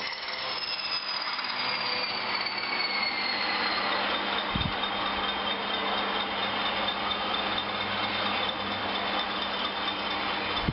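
Bachmann Class 20 model diesel locomotive with a DCC sound decoder running on its track as it slows down: a high motor whine falling in pitch over the first few seconds, then holding steady, over the rattle of the wheels on the rails and a steady hum. A single low thump about halfway through.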